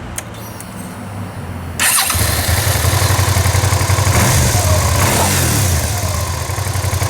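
V-twin motorcycle engine running, jumping much louder about two seconds in and revved up and back down in the middle. It runs without a misfire, the water in the spark plug hole having been pushed out with WD-40.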